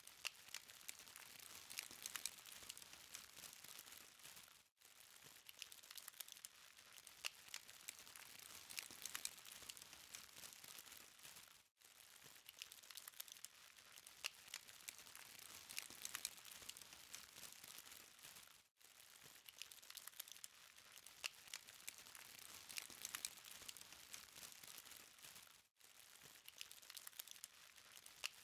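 Charcoal fire crackling faintly: a steady hiss with fine, irregular pops and snaps, dropping out briefly four times about seven seconds apart.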